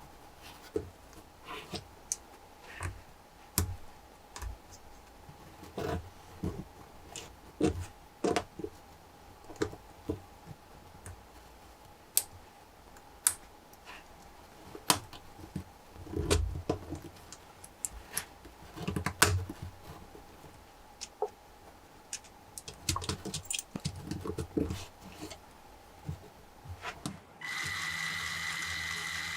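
Lego Technic plastic pieces clicking, snapping and knocking together at irregular intervals as a flat-twin engine model is assembled. Near the end, a steady whir with a high tone starts as the finished model engine is set spinning.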